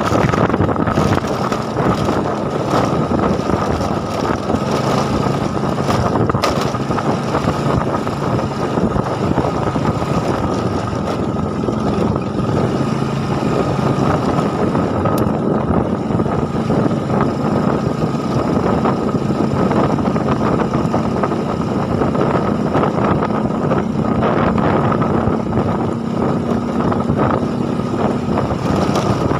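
Steady wind rush on the microphone over a low engine hum whose pitch shifts a few times.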